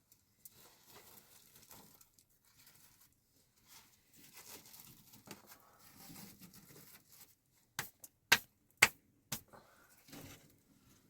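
Faint rustling and handling noises, then four sharp knocks about half a second apart.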